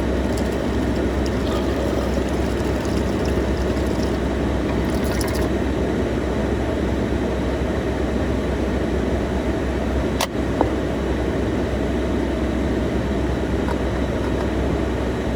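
Steady low rumbling background noise with no speech, and a single sharp click about ten seconds in.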